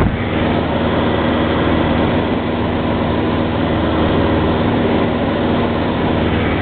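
Cessna 172's piston engine and propeller droning steadily in flight, with the pitch and level holding even throughout.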